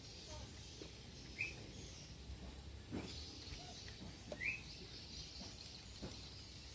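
Quiet outdoor ambience with two short, high bird chirps, about a second and a half in and again about four and a half seconds in, and a few soft knocks in between.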